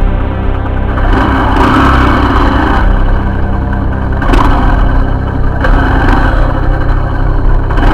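Motorcycle engine running steadily, with louder noisy stretches as the bike rides along.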